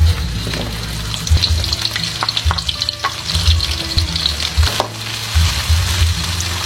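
Food sizzling as it fries in a pan and is stirred, with a hiss throughout and short scrapes and taps of a utensil against the pan.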